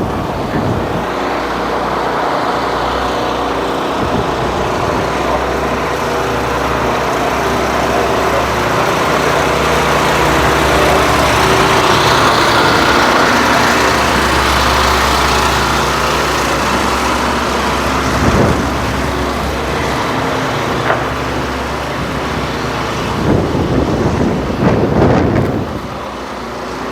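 Strong wind buffeting the microphone, together with the steady hum of a motor vehicle running nearby, with a few short bumps near the end.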